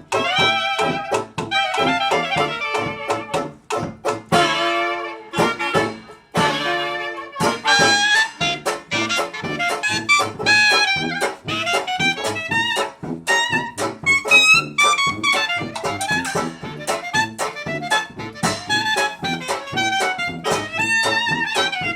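Live swing jazz band playing: a horn-led melody over a steady, even beat from the rhythm section.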